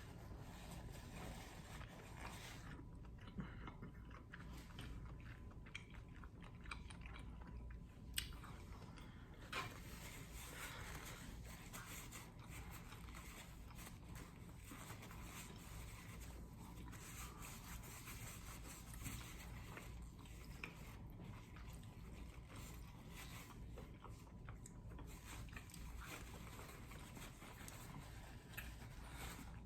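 Faint sounds of a person chewing and eating seafood, with scattered small clicks and a few sharper cracks.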